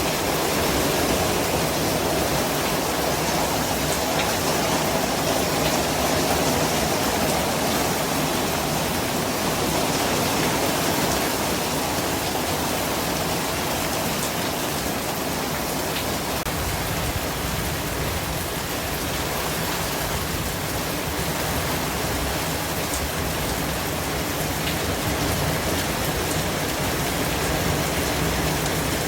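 Steady white noise: an unbroken hiss spread evenly from low to high, holding the same level throughout.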